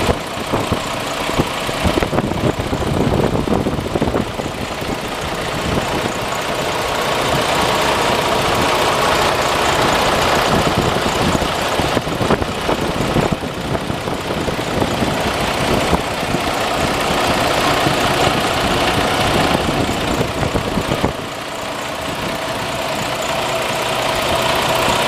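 Detroit DD15 diesel engine of a Freightliner Cascadia idling steadily, growing louder through the middle and dipping for a moment toward the end.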